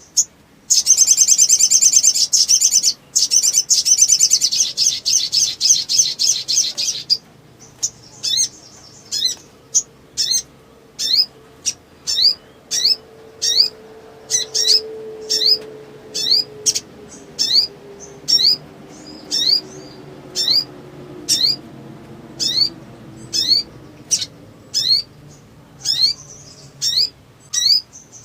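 Sunbird (sogok ontong) singing in an agitated state: a loud, rapid, high chattering run for the first several seconds, then single short rising chirps repeated about once or twice a second.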